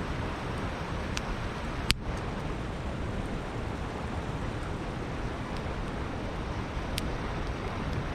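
Steady rushing of a flowing river, with a campfire crackling over it: a few sharp wood pops, the loudest about two seconds in.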